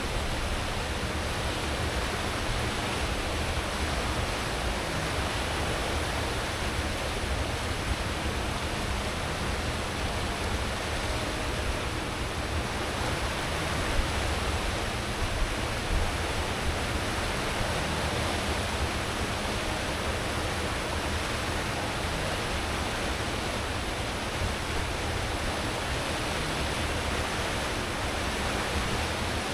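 Cruise ship's wake churning behind the stern at full speed: a steady rushing of water over a deep rumble from the ship's engines and propellers.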